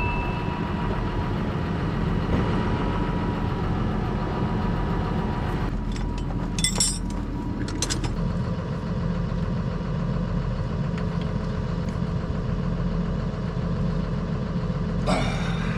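A farm machine's engine running steadily at idle. A few short clicks and knocks come about six to eight seconds in and again near the end.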